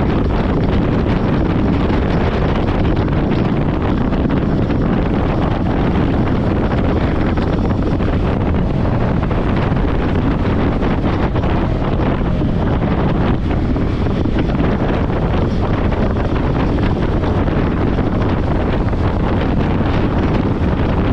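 Steady wind rush on the microphone of a camera riding along on a moving motorcycle, with the engine and road noise underneath.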